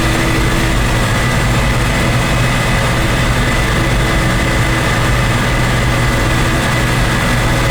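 Deuce-and-a-half military truck driving at speed: a steady, loud engine drone with road noise and a thin steady high whine, unchanged throughout.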